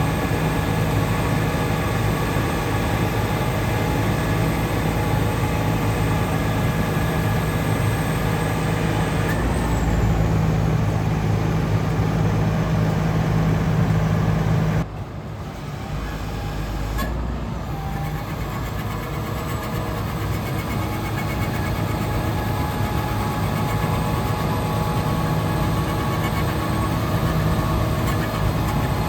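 Heavy diesel truck engine running steadily, with a low hum and steady machine tones over it. The sound drops abruptly about halfway through, then gradually builds back up.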